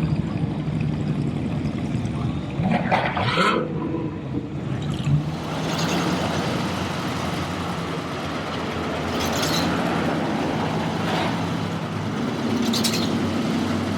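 Car engines running, a steady low engine hum under a noisy background, with a few brief louder surges spread through.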